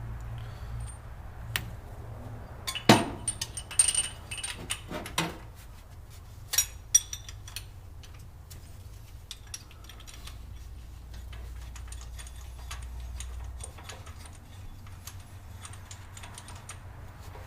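Spark plugs being removed from a small-block engine with hand tools: scattered sharp clicks and metallic clinks of ratchet, socket and plugs, the loudest about 3 and 7 seconds in.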